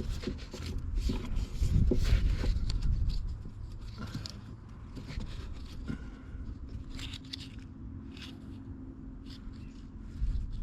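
Scattered scrapes and light clicks of hands and tools working on the loader's parts, with a low rumble in the first three seconds.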